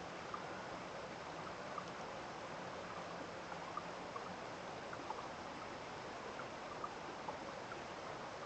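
Water flowing steadily in a stream, with brief small plinks scattered through it.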